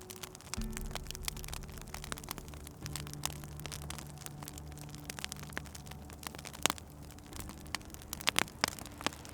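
Wood fire crackling, with frequent sharp pops and a few louder snaps near the end. A low steady drone comes in underneath about half a second in.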